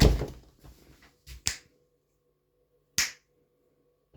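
A heavy knock right at the start, then a few short, sharp clicks or taps, the loudest about three seconds in.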